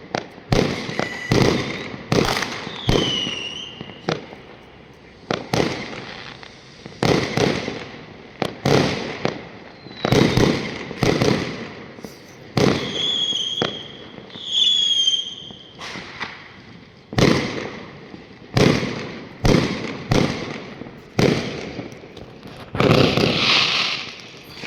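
New Year's Eve fireworks and firecrackers going off in a steady barrage, with loud bangs every second or so and a few whistling tones among them. Near the end comes a longer, denser stretch of bangs.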